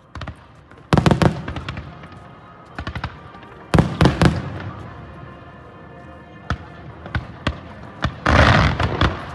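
Aerial fireworks shells bursting with sharp bangs, some single and some in quick clusters, about 1, 3 and 4 seconds in and several more from about 6.5 seconds. Near the end comes a dense stretch of crackling.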